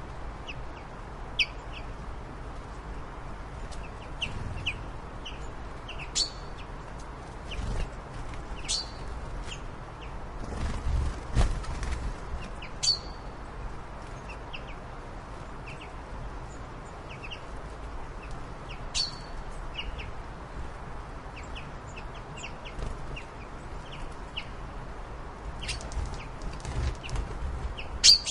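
Birds chirping: short, high chirps every second or two over a steady background hiss, with a brief patch of clicks and low rumble about eleven seconds in.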